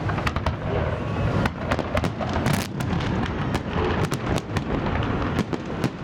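Fireworks salute going off: many sharp bangs and crackles in quick, irregular succession over a continuous low rumble.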